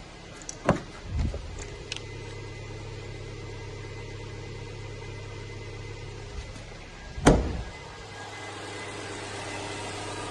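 Subaru Legacy's EJ255 2.5-litre turbocharged flat-four idling steadily. Sharp knocks sound about a second in, and a louder one about seven seconds in.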